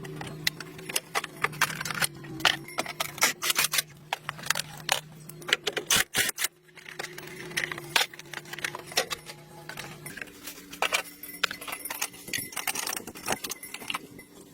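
Rapid metallic clinking and rattling, like small metal parts or tools being handled, over a steady low hum that stops about ten seconds in.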